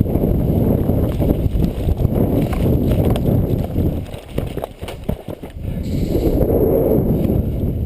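Loud, uneven thudding and rubbing on a body-worn camera's microphone, the kind made by a player moving and handling gear. A cluster of sharp clicks comes in the middle.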